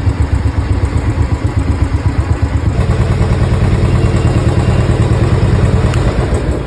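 An engine running close by with a fast, steady pulsing rumble, like a motorcycle or small vehicle idling.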